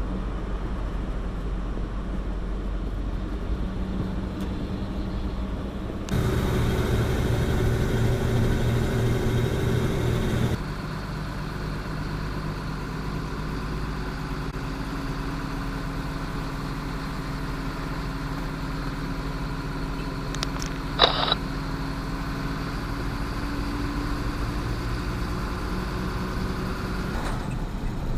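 Truck engine and road noise while driving: a steady low rumble. It turns louder for about four seconds a quarter of the way in, and a brief high-pitched sound cuts in about three quarters of the way through.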